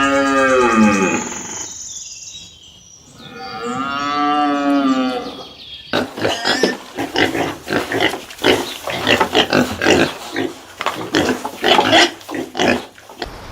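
Farm animal calls: two long drawn-out cries, each rising and then falling in pitch, then from about six seconds in a rapid, uneven run of short, choppy sounds.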